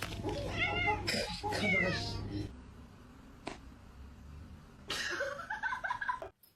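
Domestic cat meowing: a run of short meows in the first two seconds, a single click about three and a half seconds in, then more meowing around five seconds in.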